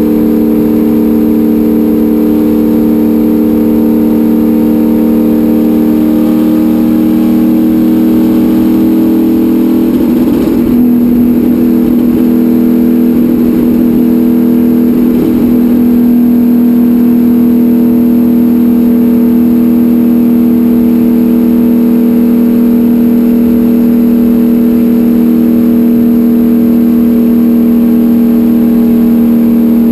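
Race car engine running loud at steady revs, heard from inside the cockpit, holding an even pitch with a brief wobble about ten seconds in.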